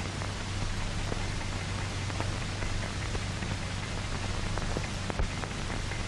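Steady hiss with scattered crackles and a low hum: the surface noise of an old film soundtrack, with no narration.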